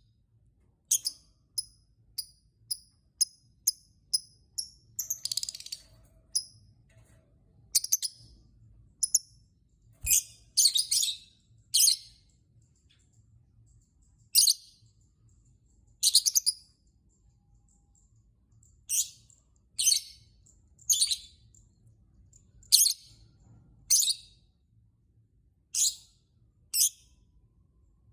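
Lovebird giving short, sharp, high-pitched chirps. First comes a quick series of about two a second, then single chirps a second or two apart.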